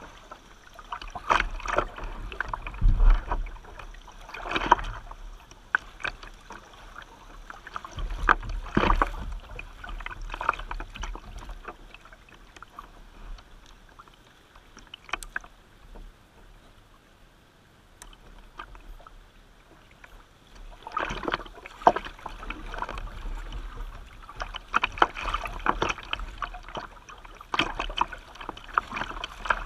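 Kayak paddle strokes splashing in moving river water, in irregular clusters of splashes with low rumbles, with a quieter stretch in the middle.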